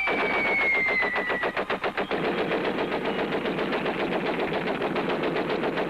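Cartoon machine-gun fire: a rapid, even rattle of shots that stops suddenly at the end. A falling whistle runs through the first second and a half.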